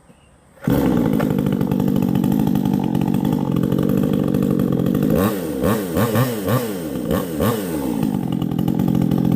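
Vevor 62cc two-stroke chainsaw starting at once on the pull, catching suddenly under a second in and running loud and steady. Around the middle it is revved up and down about five times in quick blips, then settles back to a steady run.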